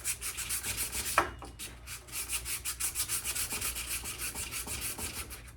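Sandpaper rubbed by hand over the rusty steel of an old axe head in quick, even back-and-forth strokes, sanding off the rust.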